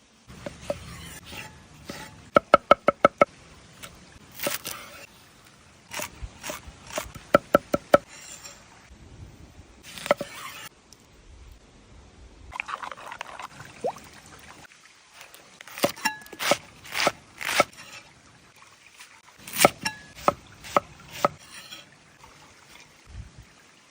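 A utensil clinking and scraping against cookware: quick runs of sharp, ringing taps with scraping strokes in between, and some liquid sloshing, as when food is stirred and served.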